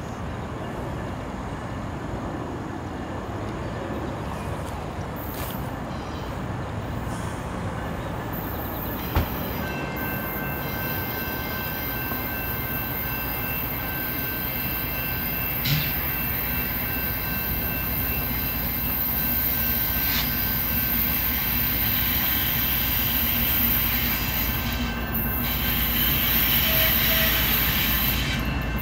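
Union Pacific diesel locomotives of a light engine move approaching, their rumble growing steadily louder. From about a third of the way in, a steady high-pitched wheel squeal rides over it, and there are two sharp clicks.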